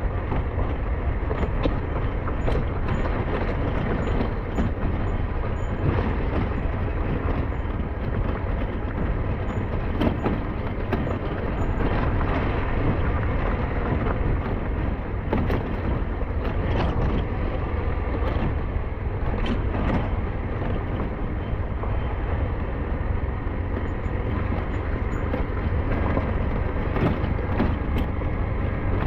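SYM NH-T 200 motorcycle being ridden, its engine running steadily under heavy wind rumble on the microphone.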